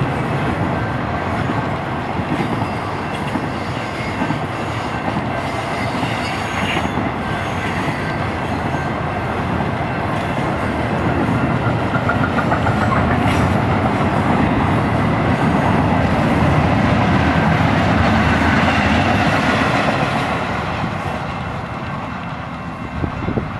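Union Pacific intermodal double-stack freight train rolling past: a steady rumble of steel wheels on rail with clickety-clack, and a faint high wheel squeal at times.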